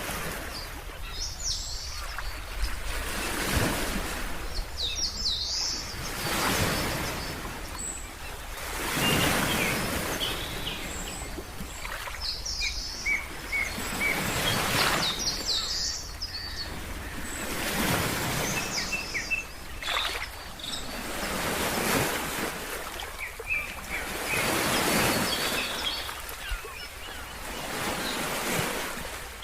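Ocean waves washing in, a swell every two to three seconds, with birds chirping over them in short high calls.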